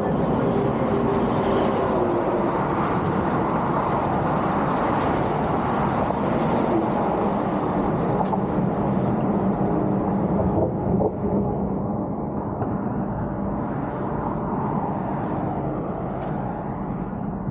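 Motor vehicle driving: a steady rumble of engine and road noise.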